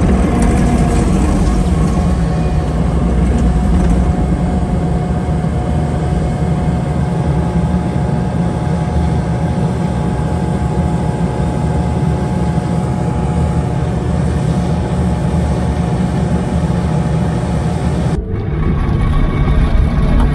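Truck's diesel engine running steadily under load, with an abrupt change in the sound near the end.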